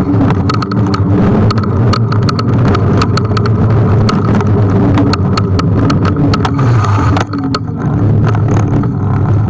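Kugoo G1 electric scooter riding over pavement: a constant rumble of road and wind, a steady hum, and many sharp rattling clicks from the scooter over bumps. The noise drops briefly about seven seconds in.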